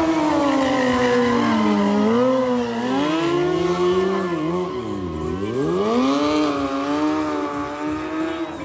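Sport motorcycle engine held at high revs during a stunt, its pitch wandering up and down, with a deep drop about five seconds in before it climbs again.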